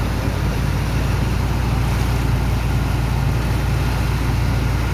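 Engine of a sand-dredging pump machine running steadily, a low even drone.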